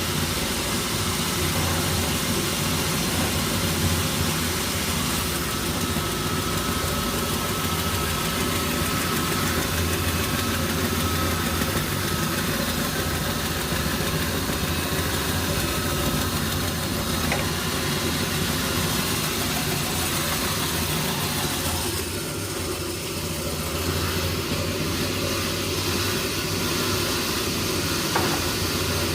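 Sawmill machinery running steadily: a constant low engine hum with a noisy mechanical wash over it and a faint thin whine through the middle stretch.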